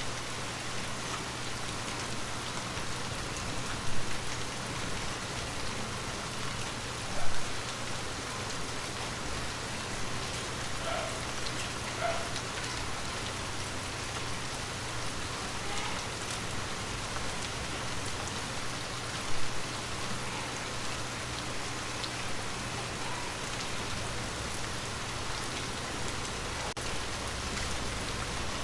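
Steady rain falling on a window, an even hiss of drops. Three brief, louder hits stand out about 4, 7 and 19 seconds in.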